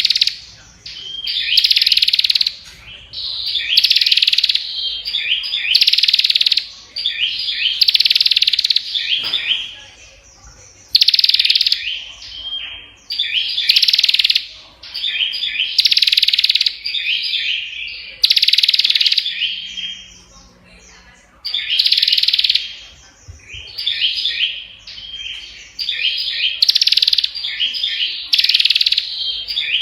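A prinia (prenjak) singing loud, fast chirping phrases of about a second each, one after another every couple of seconds with hardly a pause.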